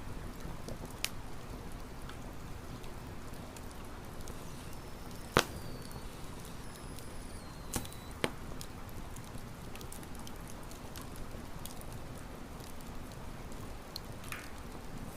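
Campfire burning: a steady crackling hiss with scattered sharp pops, the loudest about five seconds in.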